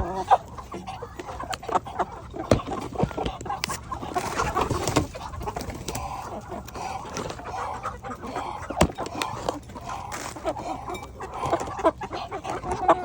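A flock of chickens clucking continuously while feeding, with a few sharp knocks mixed in, one shortly after the start, one about two and a half seconds in and one about nine seconds in.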